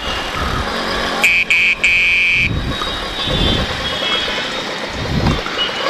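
Small electric horn of a TVS Champ moped beeping three times about a second in, high-pitched, the third beep the longest. Traffic and riding noise runs underneath.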